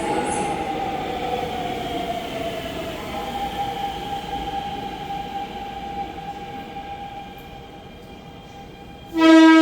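Subway train's electric motor whine falling in pitch and then holding steady as the train slows and fades. About nine seconds in, a loud, steady train horn starts.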